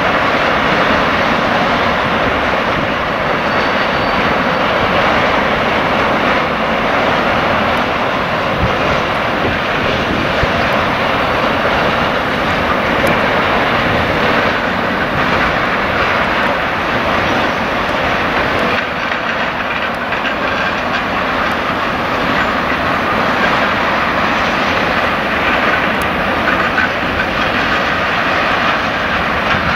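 Freight train rolling past: a steady, loud, even noise of wagon wheels on the rails that holds without a break.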